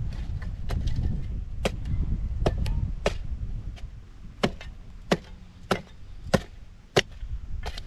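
A series of sharp chopping or knocking strikes, about a dozen, coming roughly every half second to second and most regular in the second half. A low rumble sits underneath early on and fades out by about three seconds in.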